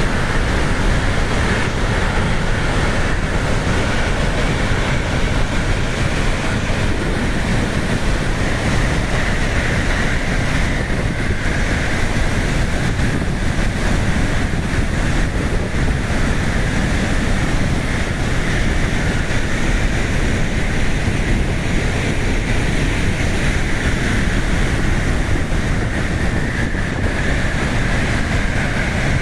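Swollen floodwater rushing steadily and loudly, with wind buffeting the microphone.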